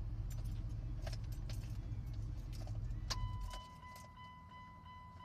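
Dodge Ram 1500 pickup engine idling, then switched off about three and a half seconds in, with keys clicking and jingling. Just before it dies, a steady warning tone starts and keeps sounding.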